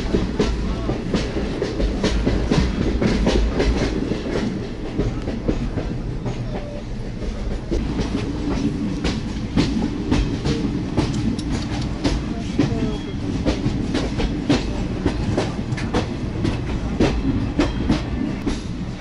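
Passenger train carriage running along the track, heard from its open doorway: a steady low rumble with a continual stream of wheel clacks and rattles.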